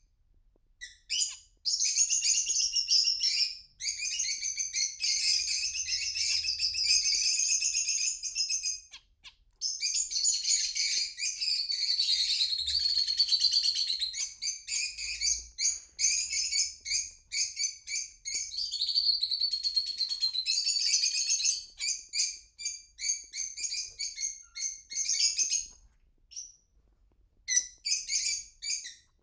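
Caged birds chirping and singing: a fast, high-pitched run of chirps and buzzy notes, going almost without a break, with two short pauses.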